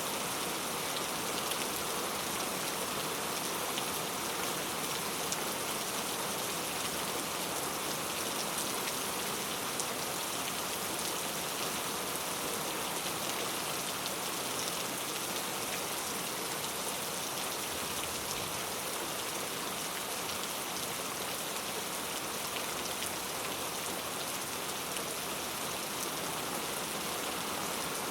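Heavy rain falling steadily on mango tree leaves, a dense even patter with individual drops ticking through it.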